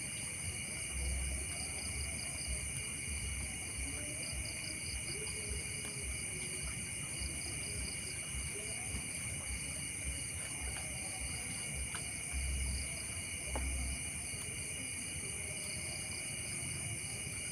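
A chorus of crickets chirring steadily, with a few low bumps against the microphone.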